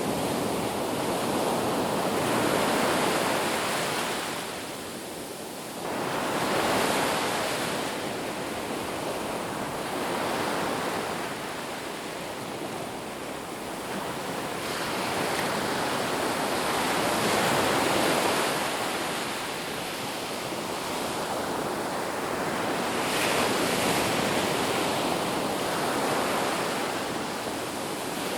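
Ocean waves breaking on a beach, a continuous surf wash that swells and eases every few seconds as each wave comes in.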